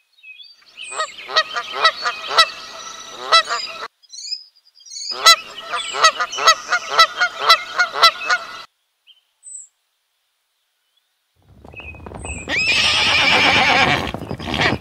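Waterfowl honking in two rapid bouts of calls, each about three seconds long, with a short silence between. Near the end a louder, rougher horse whinny comes in.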